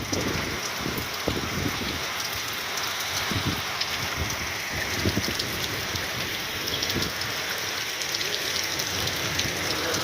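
Steady heavy rain falling, a constant hiss with scattered low thuds of drops or gusts through it.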